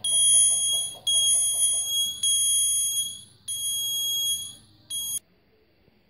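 Piezo buzzer of a homemade 9-volt door alarm sounding a steady, high-pitched electronic tone. The tone comes in about five bursts of roughly a second each, switching on and off, and cuts off sharply a little after five seconds in.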